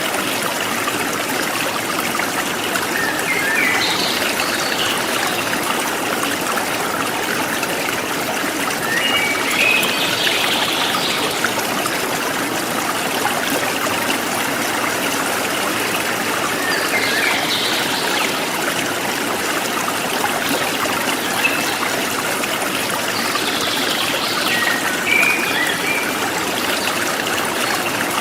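Forest stream running steadily, with short bird chirps breaking in about four times.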